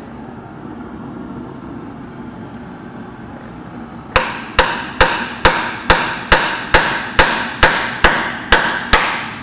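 Hammer blows on a John Deere 530 tractor's stuck gear housing to knock it loose from its dowels. Starting about four seconds in, there are about a dozen evenly spaced strikes, roughly two a second, each ringing briefly.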